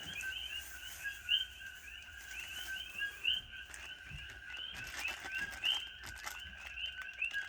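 A steady chorus of rapid, high chirping animal calls with one constant high tone under it, broken by a few faint ticks.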